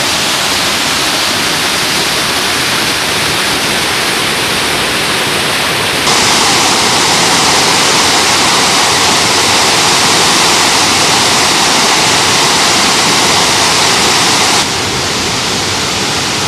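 Bogatha waterfall's rushing water, a steady dense roar of falling water. It abruptly becomes louder and brighter about six seconds in, then drops back just before the end.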